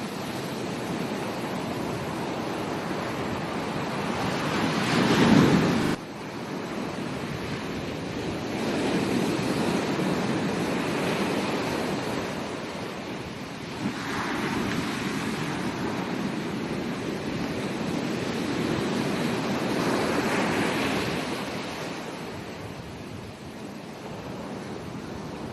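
Ocean waves breaking and washing up a beach, swelling and easing every few seconds. The loudest surge comes about five seconds in and stops abruptly.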